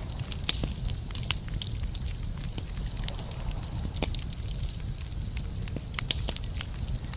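Wood fire burning in a fireplace: logs crackling and popping irregularly, several sharp snaps a second, over a steady low rumble of the flames.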